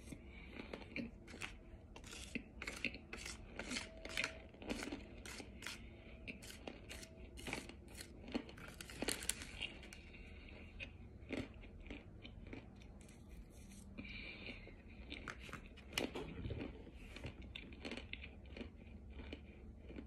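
Close-up crunching and chewing of crumbly white chalky chunks, a crisp crunch about every half second for the first half, then sparser bites.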